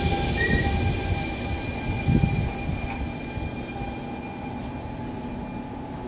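Electric passenger train running, with a steady whine of several tones over rumble that fades gradually as it moves away; a single low clunk about two seconds in.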